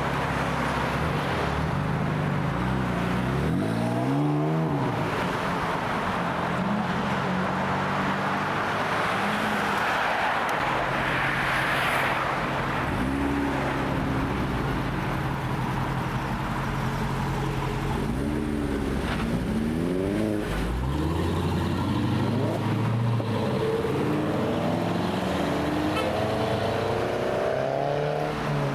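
Modified cars' engines running and revving as they drive in, with several sharp rises in engine pitch, about four, thirteen and twenty seconds in, over a steady low engine drone and road noise.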